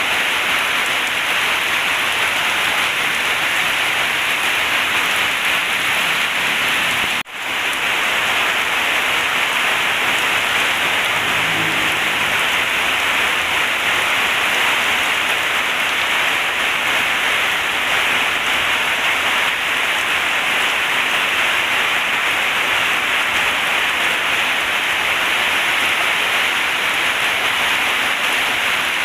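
Heavy rain falling steadily in a dense, even downpour. The sound cuts out sharply for a split second about seven seconds in.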